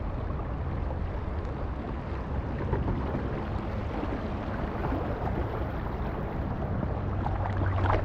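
Steady river-water noise around an inflatable kayak on the move, with faint paddle splashes. Wind rumble on the microphone grows heavier near the end.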